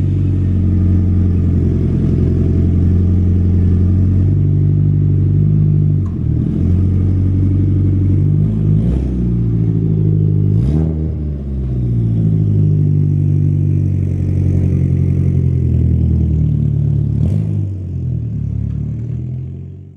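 Car engine running at a fast idle, held steady for long stretches with a couple of short blips of the throttle partway through.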